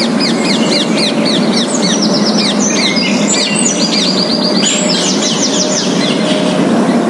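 Several songbirds singing, with many short high chirps that each fall in pitch, strung together in quick series, over a steady background noise.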